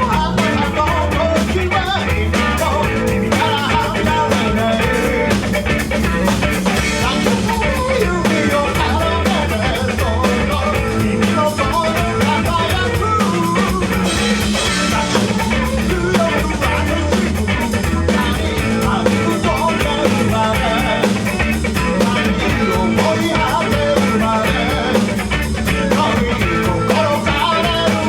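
Rock band playing live: drum kit, guitar and a singing voice over a steady beat.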